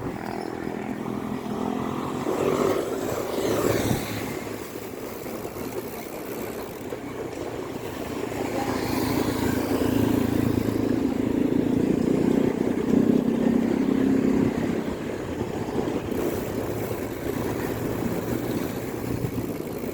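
City road traffic: motor vehicles running past, with one passing loudest from about nine to fifteen seconds in.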